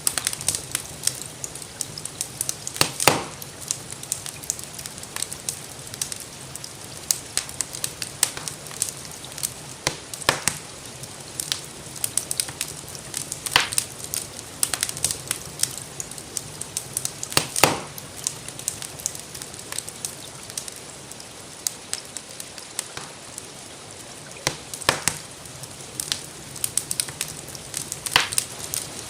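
Wood fire in a fireplace crackling, with a run of small irregular snaps and louder sharp pops every few seconds, over a steady hiss of gentle rainfall.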